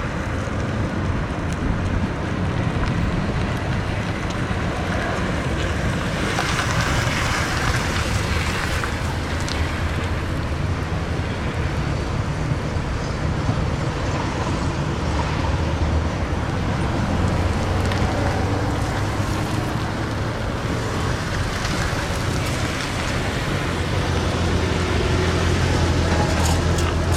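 A car running: a steady low engine drone with a rushing road-and-wind noise over it.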